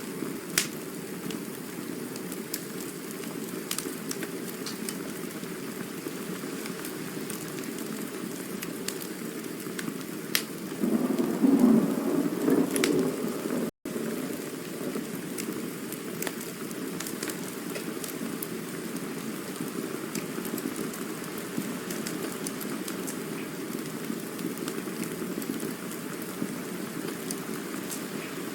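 Campfire burning: a steady hiss with scattered sharp crackles and pops, growing louder for a couple of seconds near the middle.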